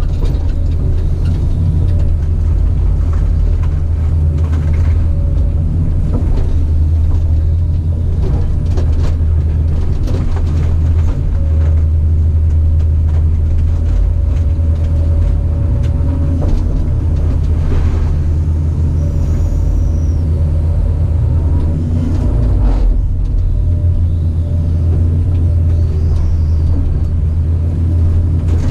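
Caterpillar 973C track loader's diesel engine running steadily, a loud deep rumble, with scattered clanks and knocks as the machine works.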